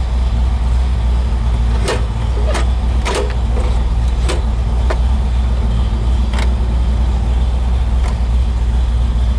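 1965 Pontiac GTO's tri-power 389 V8 idling steadily with a deep, even rumble shortly after a cold start, with a few short clicks over it.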